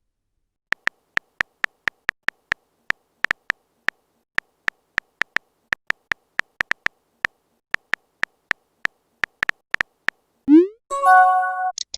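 Chat-app typing sound effect: quick, irregular little clicks, then near the end a short rising whoosh and a brief chime, the sound of a message being sent or arriving.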